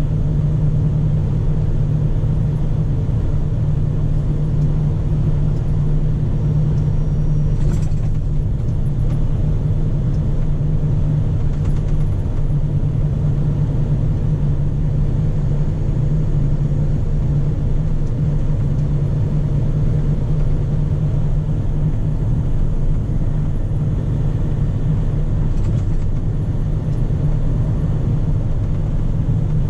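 Scania P400 truck's inline-six diesel engine running with a steady, even drone.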